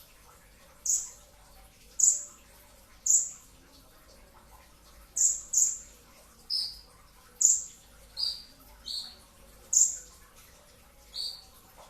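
A kolibri ninja sunbird giving about eleven short, sharp chirps, each sliding down in pitch, some high and some lower, spaced irregularly about a second apart.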